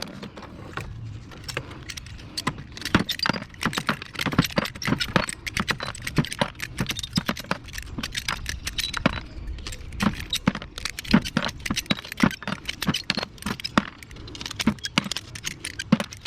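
Loose scrap metal parts from a dismantled window air conditioner clinking and rattling as they are handled, a dense run of irregular small metallic knocks and clicks.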